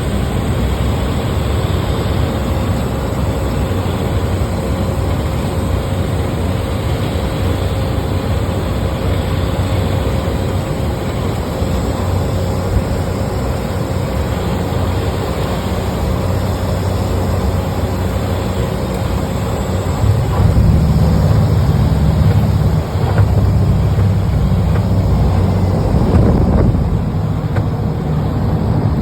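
Airliner cabin noise during a landing: a steady roar with a hum and a faint high whine. About two-thirds of the way through, a heavier, louder low rumble sets in, with a few small jolts.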